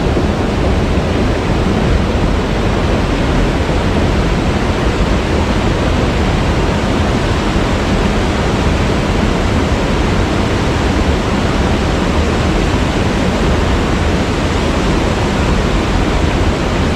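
Waterfall: water falling and crashing in a steady, dense rush, heaviest in the low end.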